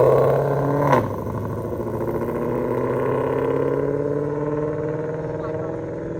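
Muscle car engine accelerating hard away, with a sharp pop about a second in; the engine note then climbs and slowly fades as the car pulls off.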